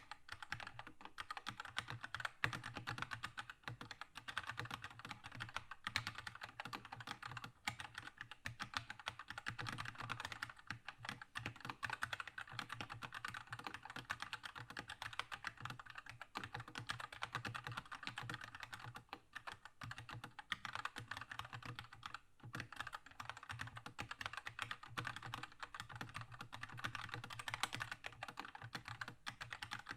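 Steady, fast typing on a Keychron K2 mechanical keyboard with red linear switches: a dense stream of key clacks, with a couple of brief pauses about two-thirds of the way through.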